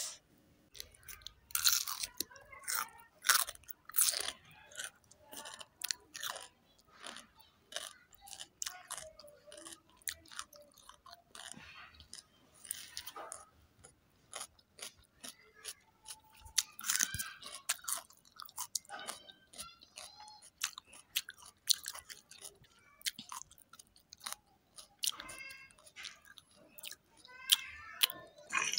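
Close-up eating sounds: a person biting, crunching and chewing a meal of mutton curry, rice and fresh cucumber slices, with many short, sharp wet clicks and crunches from the mouth.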